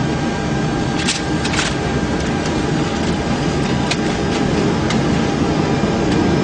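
Boeing 747 flight-deck noise as the engines run up for the takeoff roll: a steady rushing hum that grows slightly louder toward the end, with a few sharp clicks and rattles in the cockpit.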